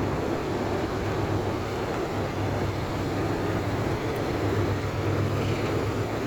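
Large ferry's engines running with a steady low drone.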